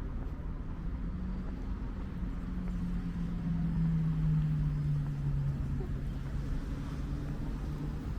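A motor vehicle's engine hum passing by, growing louder in the middle and dropping slightly in pitch as it goes past, over a steady low rumble.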